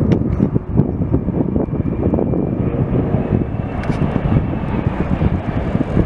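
Airliner engines running as a plane passes close by, a heavy steady rumble with a faint higher whine over it.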